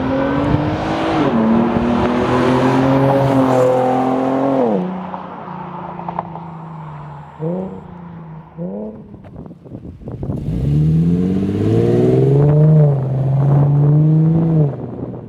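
Infiniti G37 sedan's 3.7-litre V6 through a Topspeed axle-back exhaust, pulling hard under acceleration with an upshift a little over a second in, then lifting off about five seconds in. Two short throttle blips follow around eight and nine seconds, then a second full-throttle pull that rises in pitch and cuts off near the end.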